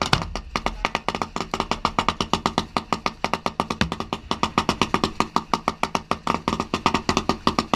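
Fireworks going off in rapid succession, sharp reports at about ten a second that keep an even pace, with a deeper thump at the start.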